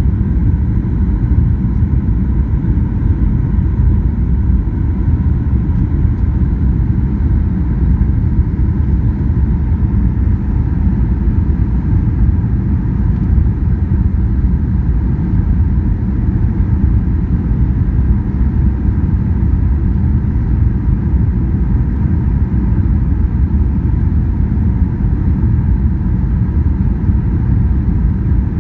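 Airliner cabin noise: a steady low rumble of engines and airflow heard from inside the cabin, with a faint steady hum above it.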